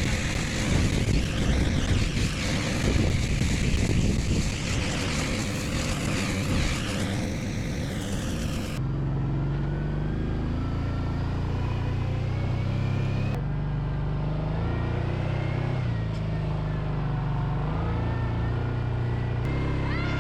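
For about the first nine seconds, a rough, noisy rush with no clear tone. Then, after an abrupt cut, an engine running with its note rising and falling as the revs change, broken by a couple more abrupt cuts.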